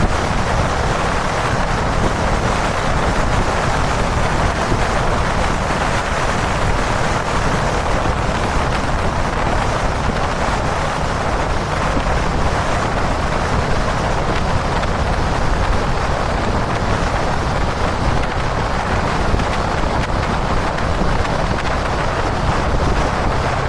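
Steady wind rush over the camera microphone from riding a Kawasaki Dominar 400 motorcycle at expressway speed, mixed with the bike's running and road noise.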